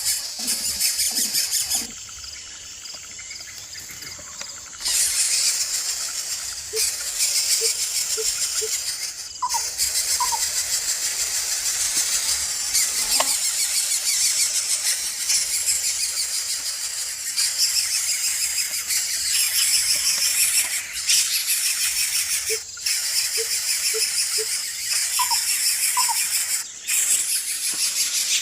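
Coucal nestlings begging with loud, high-pitched hissing squeals that keep going with short breaks. Twice, a short run of faint low hoots sounds underneath.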